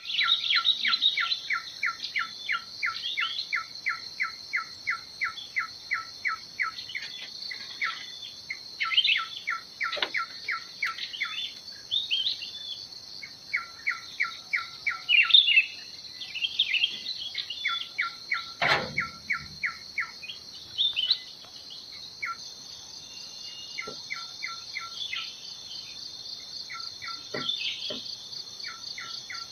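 Birds singing and chirping, one repeating a short note about four times a second in long runs, over a steady high drone of insects. There is a single brief knock about two-thirds of the way through.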